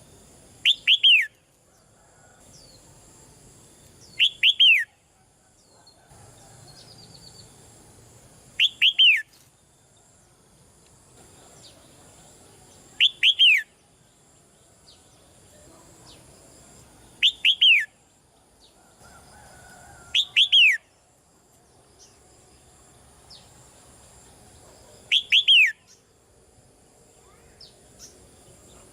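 Red-whiskered bulbul calling: seven short, loud bursts of a few quick falling notes, repeated about every three to four seconds, with fainter chirps in between.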